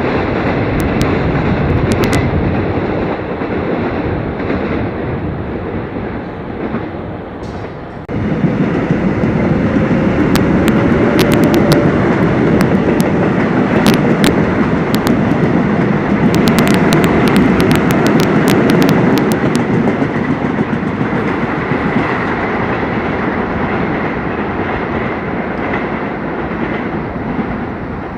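Subway train running on the rails, a steady loud rumble that steps up suddenly about eight seconds in, with sharp clicks and rattles through the louder middle stretch before easing slightly toward the end.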